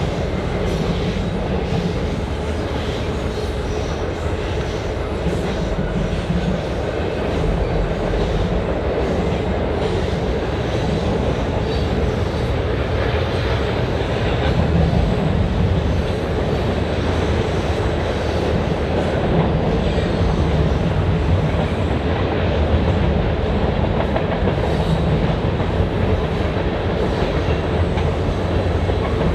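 Train rolling past at steady speed: a continuous rumble of cars with the clickety-clack of wheels over rail joints.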